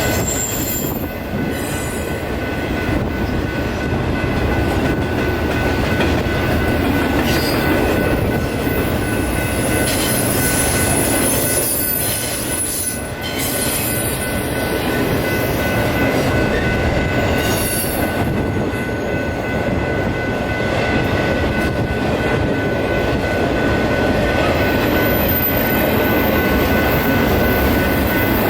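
A train rolling past, a long steady rumble of wheels on rail with a steady high squeal of wheel flanges over it.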